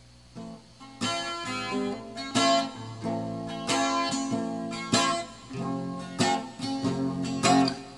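Music: the instrumental intro of a song on strummed guitar, faint at first and then in full from about a second in.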